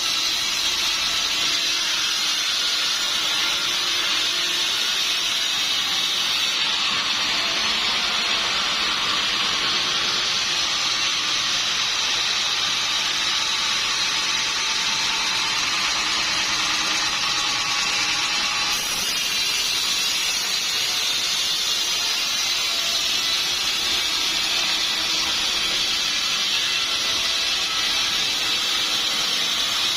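Sawmill saw blade cutting steadily through a log, a continuous high rasping noise with no break.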